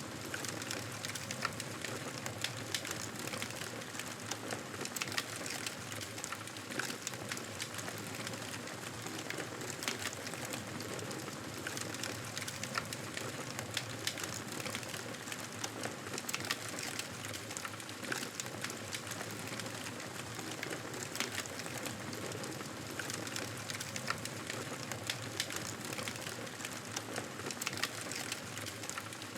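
Campfire burning with a steady hiss and frequent small crackles and pops.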